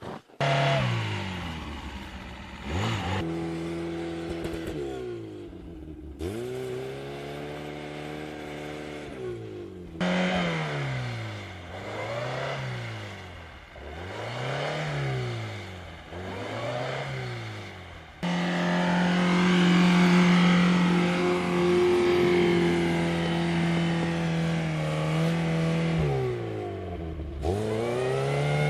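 Lada Niva engine revving up and falling back over and over, each rise and fall taking about two seconds. About two-thirds of the way through it is held at a steady higher rev for several seconds, and there are abrupt cuts between segments.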